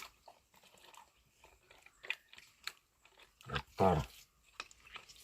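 Scattered small clicks, knocks and splashes from hands groping among stones and mud in shallow water, with a short voiced exclamation about four seconds in.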